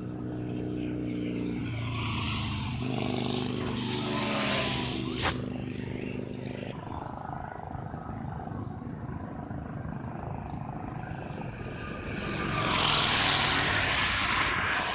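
Harley-Davidson V-twin motorcycle engines with aftermarket exhausts running with a steady low, thumping note, swelling louder about four seconds in and again near the end.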